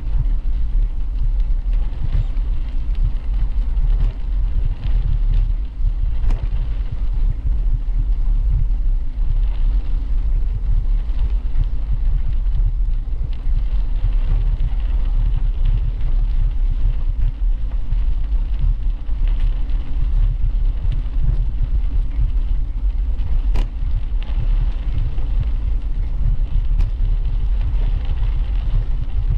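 Steady, loud low rumble of wind buffeting a camera microphone and tyre noise while cycling along a path, with a few faint clicks.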